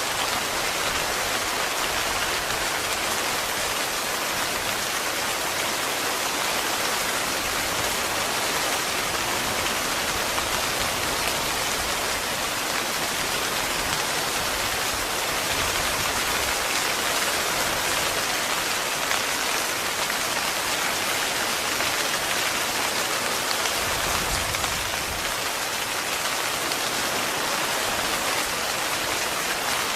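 Heavy rain falling steadily on a tent, a constant, even hiss of drops.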